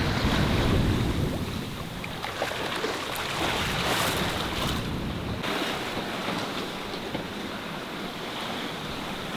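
Sea water rushing and splashing past a sailing yacht's hull under way, with wind buffeting the microphone. The wash swells and eases with the waves and changes abruptly a little over five seconds in.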